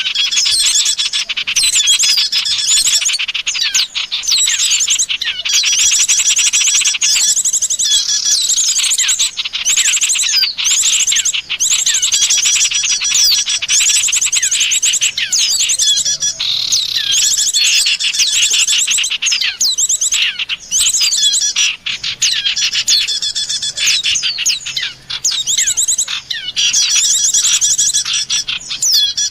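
Bird-lure recording of small songbirds, several calling at once in a dense, unbroken chatter of rapid high chirps and trills, with only brief dips.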